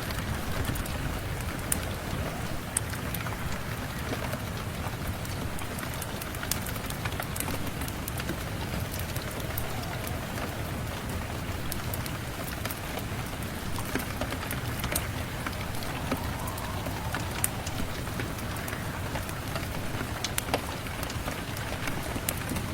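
Steady rain on a surface, an even hiss over a low rumble, with scattered sharp crackles and ticks throughout. The crackles fit a wood fire in a fireplace mixed in with the rain.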